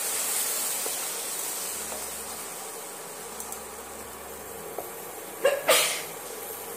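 Spice masala sizzling in hot oil in a nonstick kadai just after spice water is poured in, a steady hiss that slowly dies down as it is stirred. Two sharp knocks come about five and a half seconds in.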